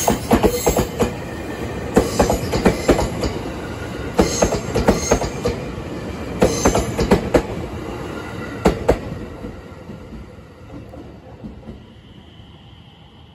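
JR West 227 series electric train pulling away from the station and passing close by, its wheels clacking over rail joints in quick clusters about every two seconds as each set of wheels goes over. After about nine seconds the clacking stops and the running sound fades as the train draws away.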